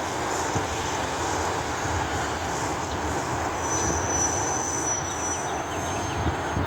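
Front-loader garbage truck engine running as the truck drives, with a thin high squeal held for about three seconds in the second half.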